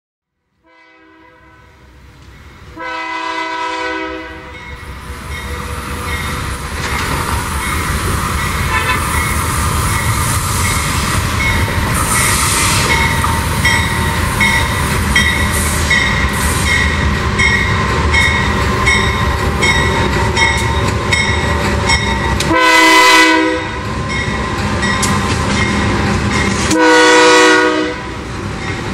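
Diesel freight locomotive sounding its horn in four blasts: a faint one at the start, a loud one about 3 s in, and two more near the end. Between the blasts the train's engine rumbles and the wagon wheels click steadily on the rails as it passes.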